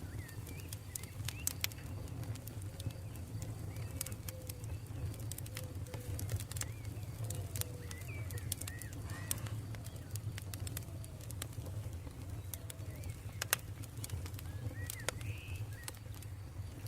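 Campfire crackling, with sharp pops at irregular intervals over a steady low rumble, while birds call in short, repeated gliding notes in the background.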